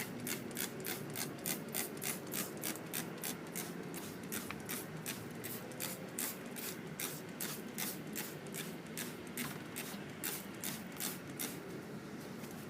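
Hand-pumped trigger spray bottle squirting degreaser onto a mower engine, quick hissing spritzes repeated about three to four times a second, thinning out near the end.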